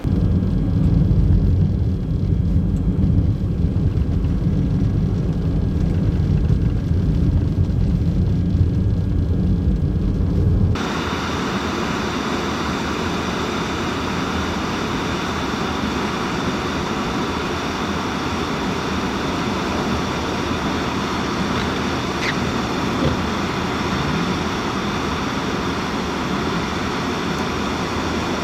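A vehicle driving on a snowy highway: a steady low rumble of road and engine noise. About eleven seconds in it switches abruptly to a steady, brighter hiss of road and wind noise.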